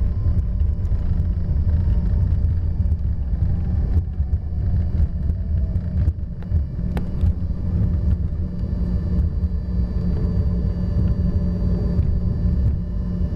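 Cabin noise of an Embraer ERJ-145 rolling out after landing: a steady low rumble from the wheels and airframe, with the whine of its Rolls-Royce AE 3007 turbofans slowly falling in pitch as they spool down.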